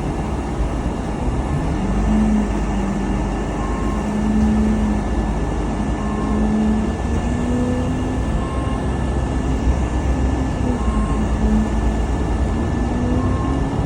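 Steady road rumble from inside a moving car, with an engine hum that rises and falls slowly in pitch.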